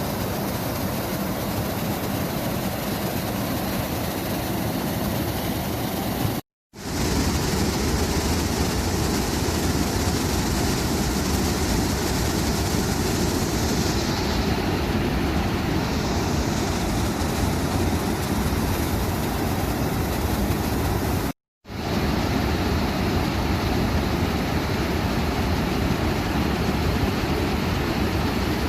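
Waterfall: a steady, dense rush of falling water, heavy in the low range. It drops to silence for a split second twice, about six seconds in and again about twenty-one seconds in.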